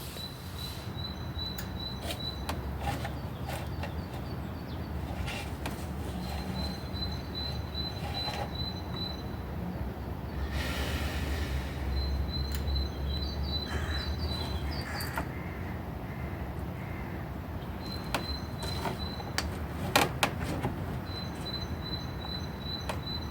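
A small bird singing a run of short, evenly spaced high notes, repeated every few seconds, over a steady low rumble, with scattered sharp clicks; the loudest click comes near the end.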